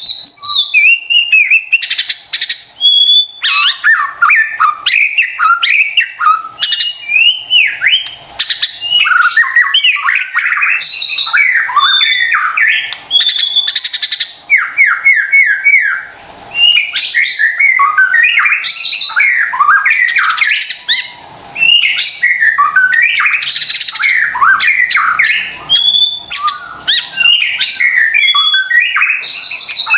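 White-rumped shama (murai batu) singing a loud, continuous, fast-changing song of whistles, chirps and trills, with runs of quick repeated down-slurred notes and a couple of brief pauses. It is the vigorous, full song (gacor) used as a lure recording to get other caged shamas to sing.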